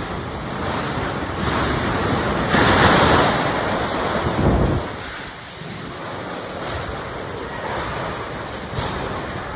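Strong gusting wind buffeting the microphone: a loud gust surges about two and a half seconds in, another low one follows near five seconds, then the wind eases.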